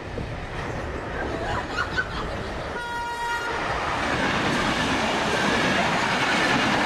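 A train horn sounds one short toot about three seconds in, over the rumble of a moving train that grows steadily louder afterwards.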